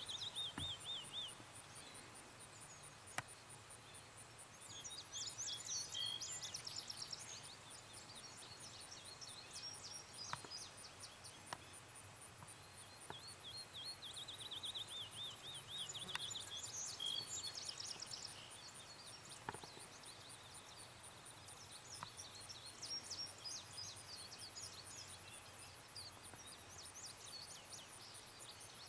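Songbirds singing and calling outdoors: scattered high chirps and a wavering warbled song, which comes at the start and again around the middle, over a thin, steady, very high pulsing tone. A few faint ticks now and then.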